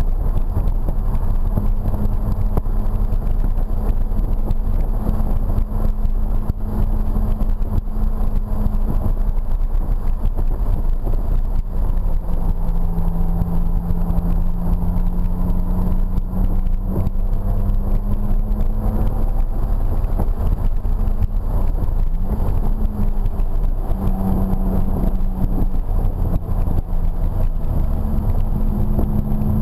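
BMW E46 M3's S54 straight-six engine heard from inside the cabin at track speed, with steady road and tyre noise. The engine note holds steady at first, drops lower about twelve seconds in, then climbs again in steps near the end.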